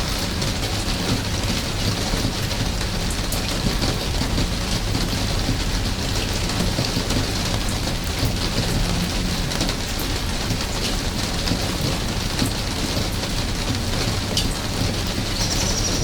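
Steady rain falling, with scattered sharp drips and patters over an even hiss and a steady low rumble underneath.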